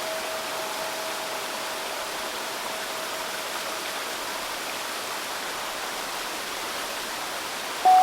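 Steady babbling of a river stream, with a steel tongue drum note ringing out and fading over the first few seconds. Another, slightly higher note is struck near the end and rings on.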